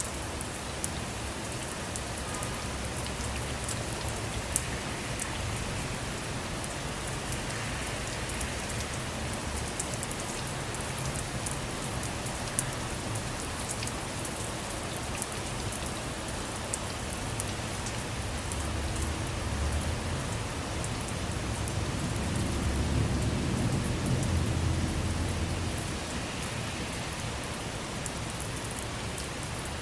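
Steady rain falling on a car's roof and windows, heard from inside, with sharp individual drop hits scattered through it. A low rumble of distant thunder swells up past the middle and fades a few seconds before the end.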